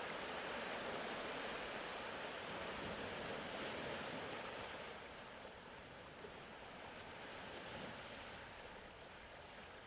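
Faint ocean surf ambience, a soft even wash of waves that eases a little about halfway through.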